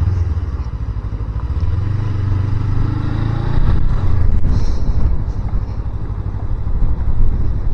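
Motorcycle engine running on the move, its pitch rising for a second or so about two seconds in, then dropping away.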